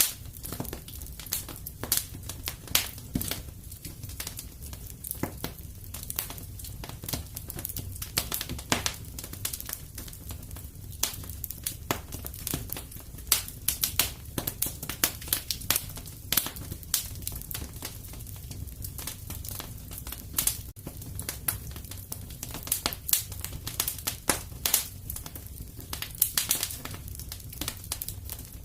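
Wood fire crackling and popping steadily, with many irregular sharp snaps over a low, even rumble of the flames.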